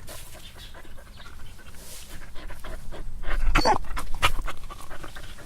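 A dog panting in quick, rapid breaths, with a couple of louder whimpering breaths a little past the middle.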